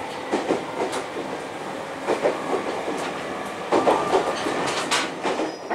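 Local IGR Iwate Ginga Railway electric train heard from inside the passenger car while running: a steady rumble of the moving train with repeated, irregular clacks of the wheels over the rails.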